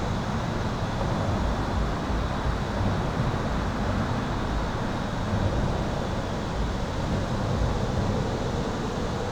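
Steady highway traffic heard from under an overpass: a continuous rumble of tyres and engines, heaviest in the low end, with a faint steady high tone running through it.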